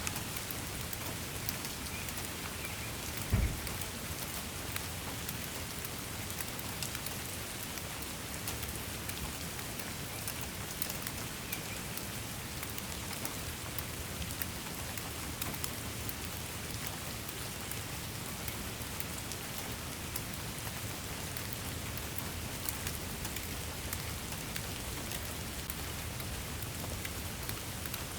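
Steady rain falling on a surface: a dense, even patter of drops. One dull, low thump sounds about three seconds in.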